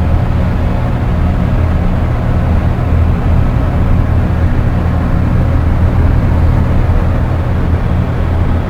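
Dark ambient drone music: a loud, steady, deep synthesizer drone with a noisy haze above it, unchanging throughout.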